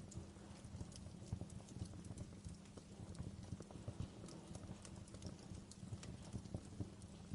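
Wood fire burning in a fireplace, crackling and snapping with irregular sharp pops over a steady low rumble of the flames.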